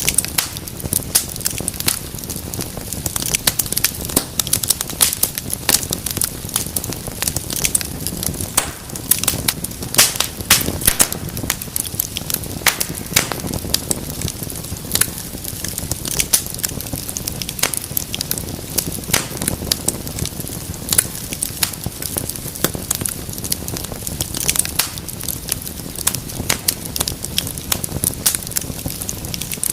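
Wood fire in a fireplace crackling steadily, with dense, irregular sharp pops and snaps over a soft hiss of flame.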